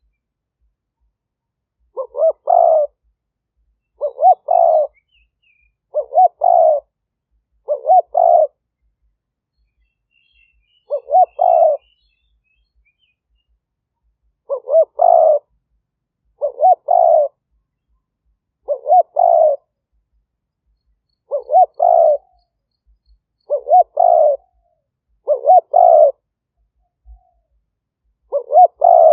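Spotted dove cooing, about a dozen times, roughly every two seconds, with a longer pause near the middle. Each call is a short note followed by a longer coo.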